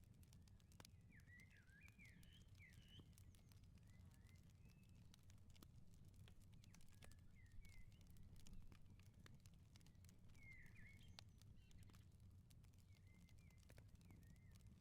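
Faint wood fire crackling, with scattered sharp pops over a low steady rumble. Small birds chirp now and then, in short bursts several times.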